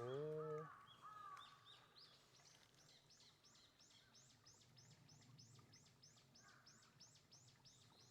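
Faint bird calling: a few falling whistled notes, then from about two seconds in a steady run of short, high, falling chirps, about three to four a second. A brief low voice-like sound at the very start is the loudest moment.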